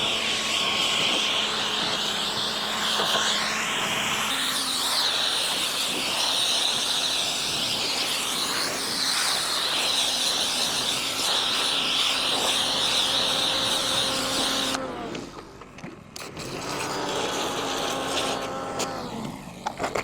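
Pressure washer spraying water through a wide 40-degree nozzle to rinse a car, a steady hiss with a machine hum under it. The spray cuts off suddenly about fifteen seconds in, leaving a quieter hum.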